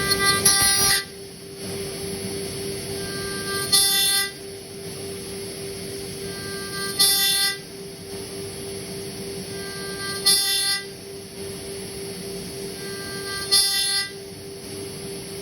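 CNC spindle running with a steady hum while the end mill cuts aluminium in repeated passes: about every three seconds a loud, high-pitched ringing squeal as the cutter bites, each lasting under a second, five times in all.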